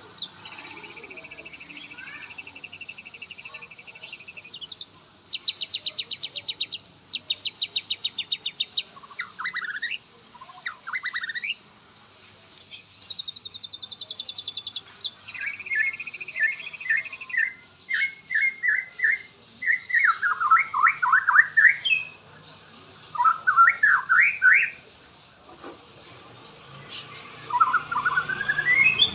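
White-rumped shama (murai batu) singing a long, varied song in separate phrases: high trills, fast runs of repeated notes and rising whistled sweeps, with short pauses between.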